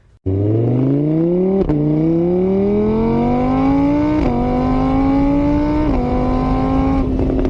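An engine accelerating hard through the gears: its pitch climbs steadily, then drops back at each of three upshifts and holds steady after the last. It starts abruptly just after the opening.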